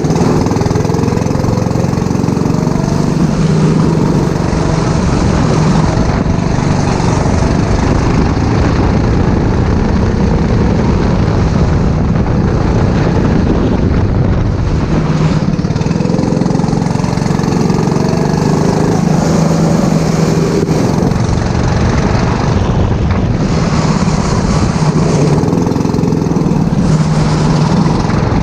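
Four-stroke racing kart engine running hard on a lap, its pitch rising and falling as it accelerates and lifts through the corners, over a steady hiss.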